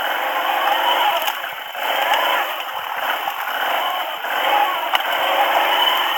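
Quad bike engine running under way, its pitch rising and falling with the throttle, with scattered clicks and rattles over the top.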